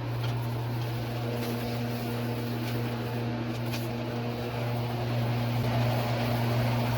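Steady low mechanical hum of a running motor or fan, unchanging throughout, with a few faint light ticks.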